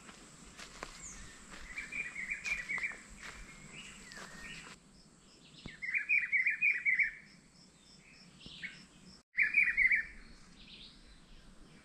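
A songbird repeating a short, high chattering phrase three times, about every three and a half seconds, with faint scattered taps during the first few seconds.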